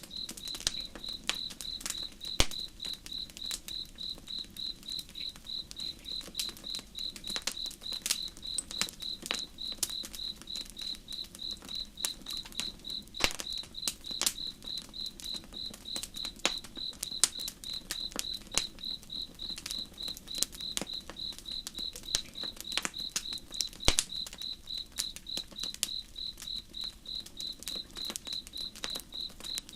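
Campfire crackling and popping in irregular sharp clicks, a few louder pops standing out, over a cricket chirping steadily about twice a second.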